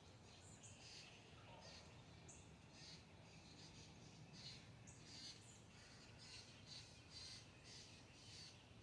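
Faint, quick high chirps of small birds, repeating every half second or so and coming more thickly in the second half, over a low steady background rumble.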